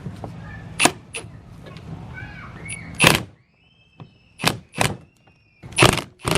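Hand tools and a socket knocking and clinking against the metal VANOS unit and engine parts: a string of sharp single knocks, the loudest about three seconds in and again near the end.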